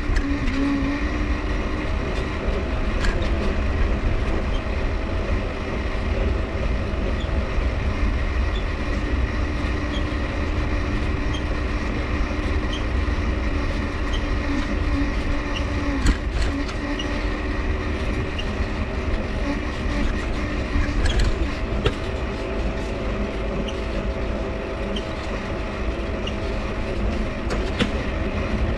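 Mifa folding bike being ridden: its dynamo whirs with a steady hum while the crank gives a small squeak about once a second, over a low rumble.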